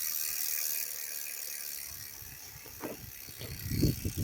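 Mountain bike's rear hub ratchet ticking as the wheel coasts, a fast high buzz at first, with a run of low knocks near the end that are the loudest part.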